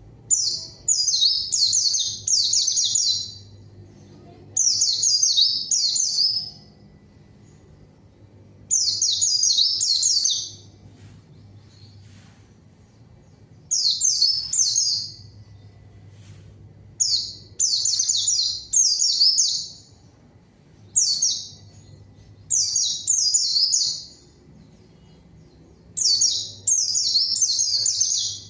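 White-eye (pleci) singing: about ten bursts of rapid, high twittering notes, each half a second to two seconds long, separated by short pauses of a second or two.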